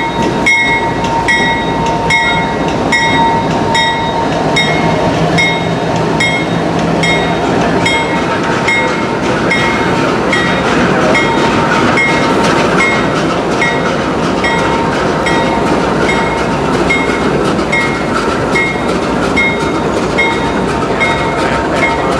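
Locomotive's steel bell ringing steadily, about three strikes every two seconds, over the rumble of the train.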